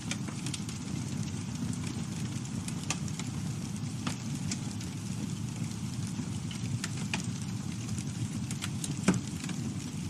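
Campfire burning: a steady low rumble of flame with scattered sharp crackles and pops, one louder pop about nine seconds in.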